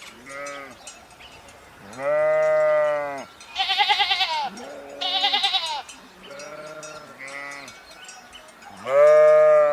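Farm livestock calling: several long, low, steady calls, loudest about 2 and 9 seconds in, and two higher, quavering bleats about 3.5 and 5 seconds in.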